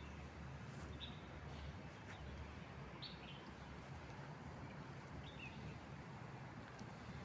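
A small bird chirping: a few short, high chirps about one, three and five seconds in, over a steady low background hum.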